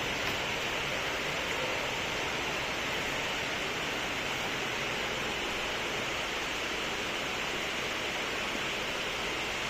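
Steady, even hiss that holds the same level throughout, strongest in the upper-middle range.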